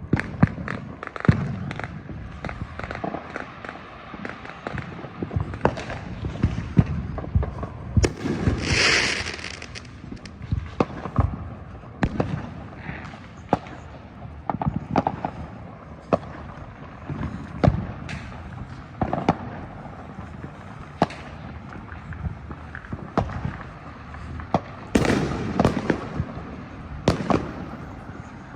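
Fireworks and firecrackers going off all around, many sharp bangs and pops at irregular intervals. About eight seconds in there is a loud hiss lasting a second or two, and a cluster of louder bangs comes near the end.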